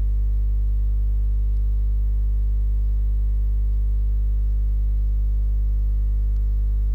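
Steady electrical mains hum with a stack of overtones, unchanging throughout, picked up in the recording.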